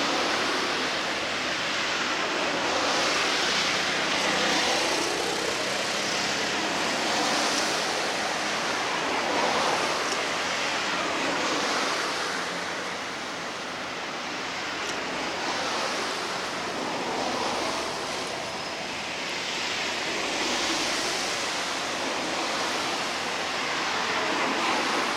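Harbour water washing against the shore, a steady hiss that swells and eases every few seconds.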